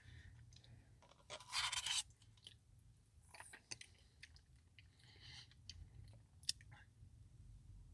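Close-up eating sounds of a Biscoff Cookie Blizzard: quiet chewing and crunching of the cookie pieces, with scattered small clicks and a louder, noisy crunch about a second and a half in.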